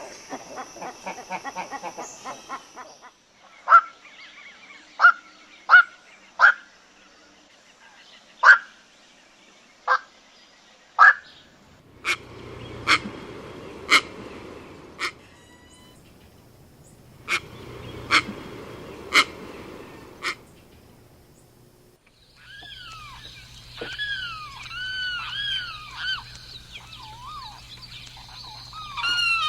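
Bird calls from several clips in turn: a rapid chatter at the start, then single sharp call notes about a second or so apart, and near the end a run of repeated arching calls.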